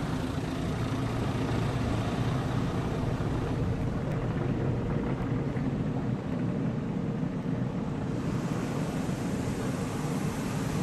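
Steady noise of an automated tunnel car wash's machinery, heard from inside the car's cabin.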